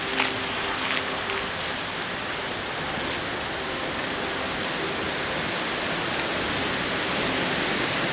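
Steady rush of South Falls, a large waterfall, growing slowly louder.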